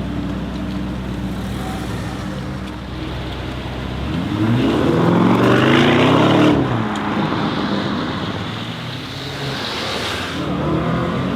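ABT Audi RSQ8-R's 4.0-litre twin-turbo V8 running at a steady low rumble, then accelerating hard: the engine note climbs for about two seconds to its loudest, then cuts off sharply as the throttle is lifted. A smaller rise in revs comes near the end.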